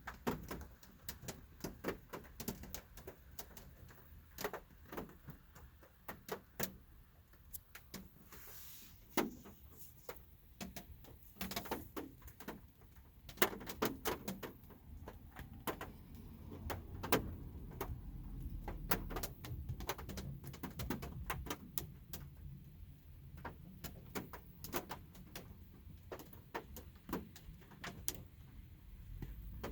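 Light rain heard from inside a parked car: scattered drops tick irregularly on the car's body over a faint low rumble.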